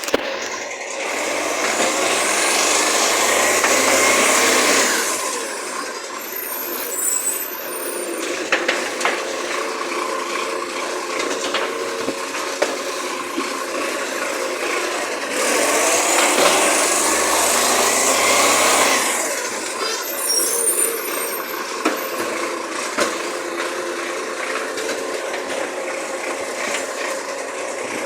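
Recycling garbage truck at work: twice, a loud stretch of about four seconds with a rising whine and a noisy rush, each followed by short bursts of hiss, with the truck's engine running steadily in between.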